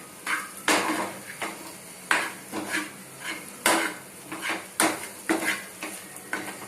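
A spoon stirring onions and chilli powder in a kadai, scraping and knocking against the pan in uneven strokes, roughly one or two a second.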